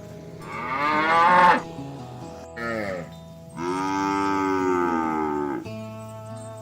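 Cattle mooing three times: a rising call, a short call, then a long drawn-out moo of about two seconds. Background music plays underneath.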